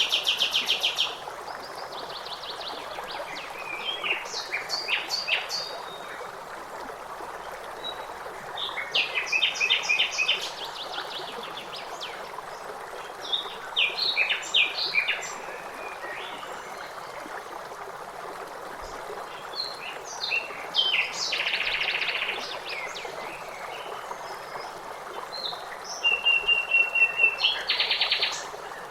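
Songbirds singing short trilled phrases of rapid repeated notes every few seconds, over the steady rush of running water.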